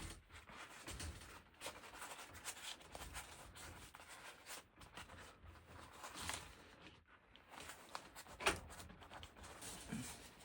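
Irregular rustling and scraping of things being handled, with small clicks and one sharper knock about eight and a half seconds in.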